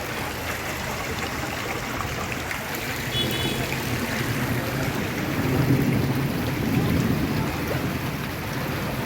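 Steady rushing water noise on a flooded street, with a low engine rumble swelling from about five to eight seconds and a brief high beep about three seconds in.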